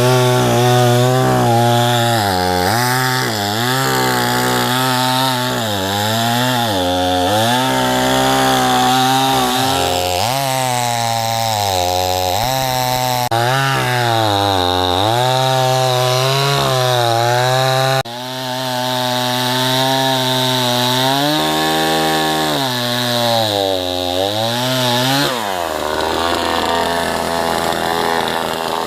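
Two-stroke petrol chainsaw cutting into a dead, dry tree trunk. The engine pitch sags under load and climbs again over and over as the bar bites and eases off, then it drops to a lower, steady idle near the end.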